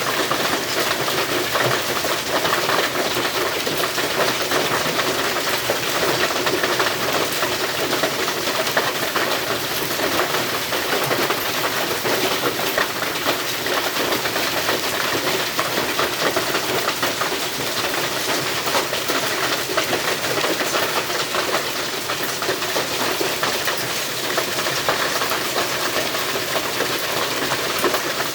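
Hail and heavy rain pelting down: a loud, steady clatter of countless small impacts over a hiss of rain.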